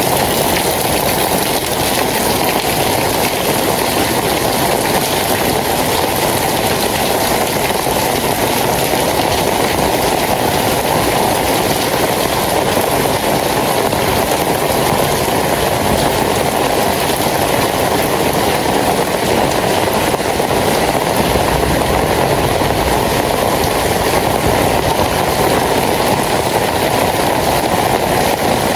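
Steady rain, a loud even hiss that holds without a break.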